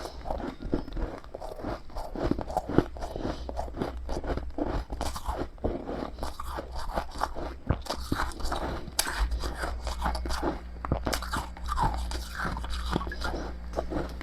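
Close-up chewing of freezer frost ('snow ice'): a continuous run of quick, crisp crunches as the powdery frost is bitten and chewed, with a few sharper cracks among them.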